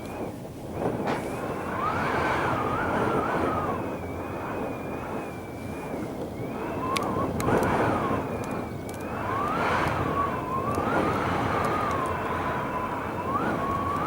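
Strong gusting wind, over 40 mph, rushing past a sea-facing window. The noise swells and eases with the gusts, and a thin whistle wavers up and down in pitch through it. There are a few sharp ticks about seven seconds in.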